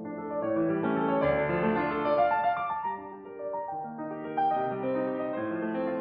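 Background piano music, a gentle run of notes that swells in the middle.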